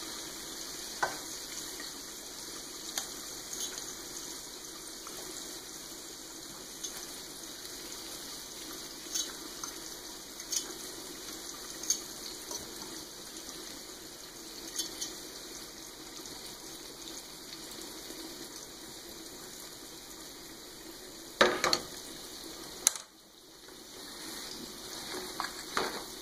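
Breaded squid rings frying in hot oil in a stainless steel pan, a steady sizzle, with light clicks of a fork against the pan as rings are lifted out. A louder clatter of metal comes about 21 seconds in, and the sizzle briefly drops away about 23 seconds in.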